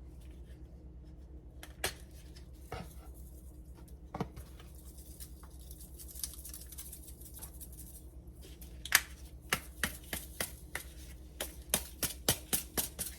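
Kitchen handling sounds: a few light knocks, a soft hiss, then a quick run of sharp clicks and taps in the last four seconds.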